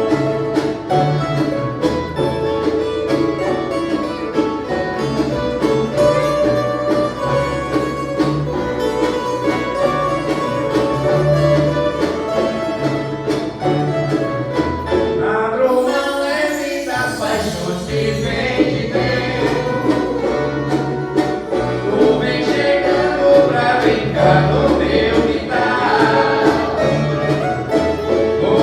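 Viola caipira orchestra playing: many ten-string violas strummed and plucked over a steady bass line. A little past halfway there is a short break, after which voices sing along with the strings.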